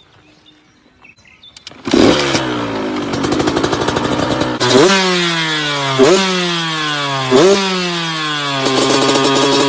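A motorcycle engine comes in suddenly about two seconds in, then is revved in three quick blips, the pitch jumping up and sinking slowly back each time, before holding steady at a somewhat higher speed near the end.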